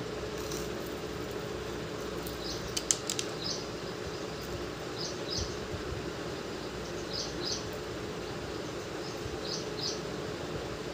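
Short high double chirps, typical of a small bird calling, repeating about every two seconds over a steady hum. A few sharp clicks sound about three seconds in.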